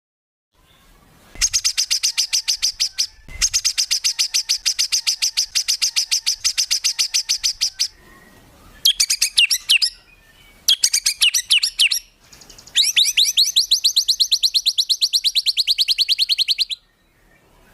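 Songbird singing long, rapid rattling trills of repeated high notes, the 'tembakan' phrases used to train caged songbirds. There are about five bursts of one to four seconds each at roughly ten notes a second, and the last trill sinks slightly in pitch toward its end.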